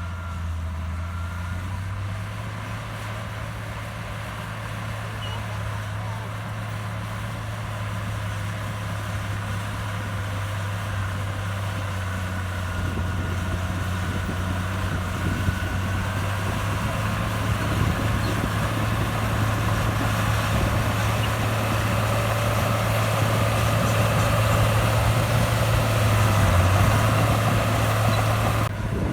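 Heavy diesel earthmoving machinery running steadily, growing louder through the second half.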